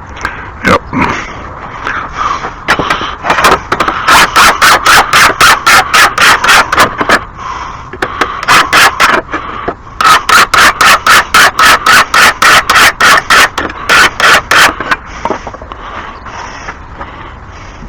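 Hand file rasping across a steel lawn mower blade in quick strokes, about four a second, in two runs with a pause between, taking metal off the blade's heavy end to balance it.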